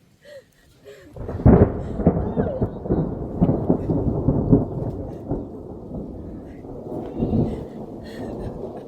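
Strong wind gusting and buffeting the microphone: a loud, rumbling, irregularly thumping roar that starts suddenly about a second in and eases gradually.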